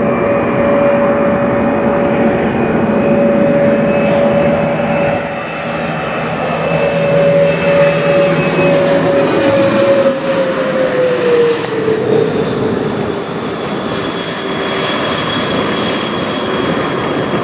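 Bombardier Challenger 650 business jet's twin turbofan engines passing overhead: a steady jet whine over a rushing roar, loudest a little past the middle, with the whine dropping in pitch about eleven seconds in as the jet goes by.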